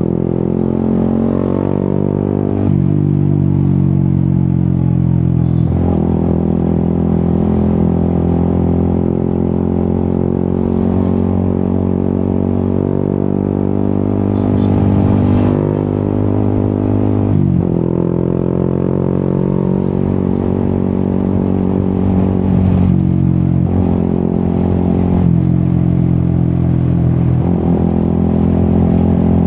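Yamaha XSR 155's single-cylinder engine running through an Akrapovic exhaust while being ridden, heard close up. The revs rise and fall, with a handful of sudden shifts in pitch like gear changes or throttle changes, and the engine note sinks gradually after several of them.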